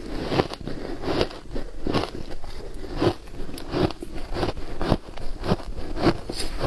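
Ice being bitten and chewed close to the microphone: a steady series of crisp crunches, a little more than one a second.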